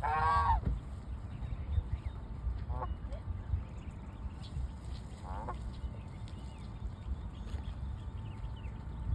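A bird honking: one loud call at the start, then two shorter, fainter calls a few seconds apart, over a steady low rumble.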